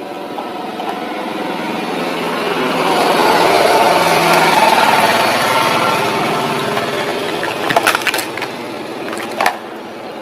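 Small toy JCB being pushed along a hard surface: a steady rolling noise from its plastic wheels that swells and then fades, with a couple of sharp clicks near the end.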